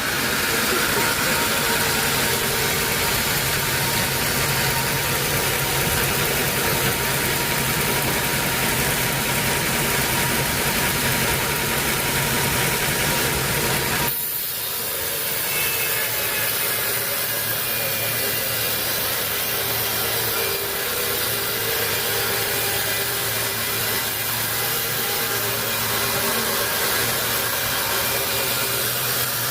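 Sawmill saw and its motor running steadily, cutting teak wood. The sound changes abruptly about halfway through, then continues steadily.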